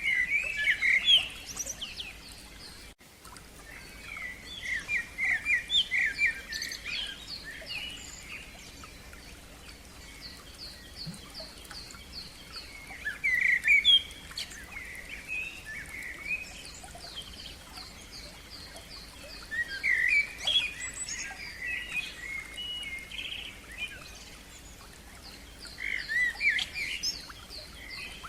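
Songbirds singing in phrases every few seconds. Between the phrases come runs of fast, evenly repeated high notes.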